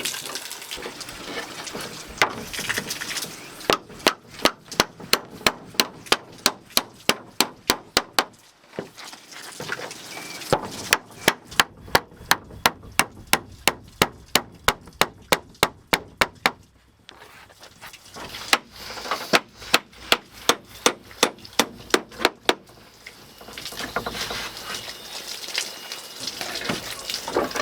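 Sharp strikes repeated evenly, about four a second, in three long runs with short pauses between.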